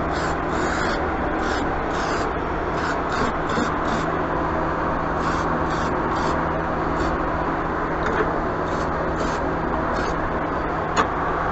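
About a dozen short, irregular rubbing strokes, as of painting or wiping on the equipment's surface, over a steady background hum.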